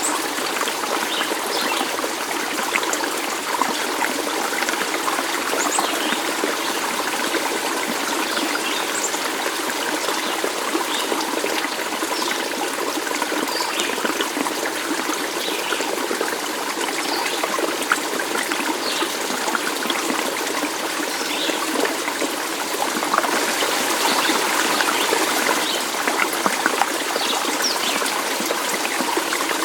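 Water trickling and babbling steadily in a stream, growing a little louder and brighter about three-quarters of the way through.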